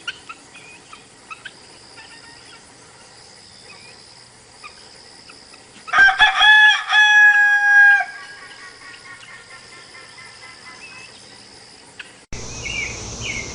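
A rooster crowing once, a loud cock-a-doodle-doo of a few short notes ending in a long held note, about six seconds in, over faint chirping of small birds.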